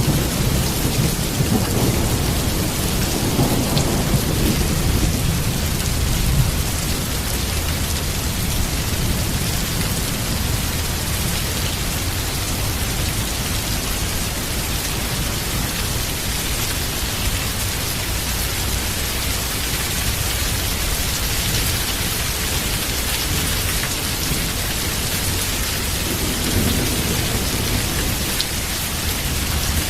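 Heavy rain falling steadily with rolling thunder. The low thunder rumble is strongest in the first few seconds and then dies away, and a second, lighter rumble comes near the end.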